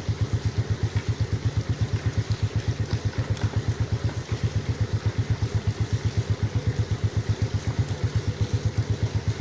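Engine running with a steady low throb, about eight even pulses a second.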